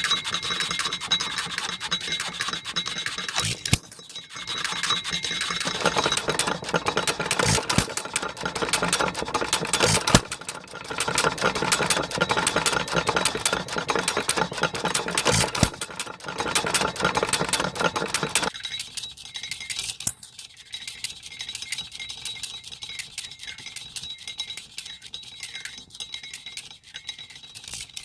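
Aermotor 8-cycle engine running, a dense rapid mechanical clicking and rattling. About two-thirds of the way through the sound turns thinner and quieter.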